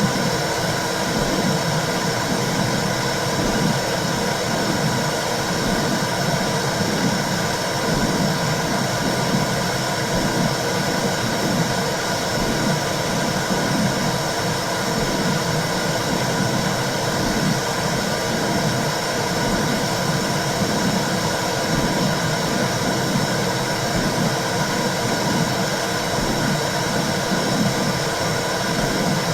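Simulated womb sound for soothing a baby: a steady whooshing noise with a low rumble that keeps swelling and fading.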